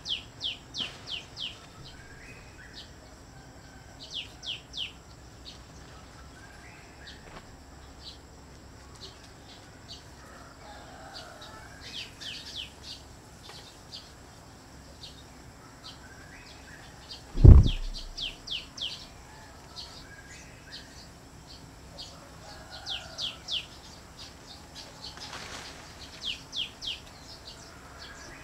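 Birds calling: runs of four to six quick, falling chirps, repeated every few seconds. A single loud low thump comes a little past halfway.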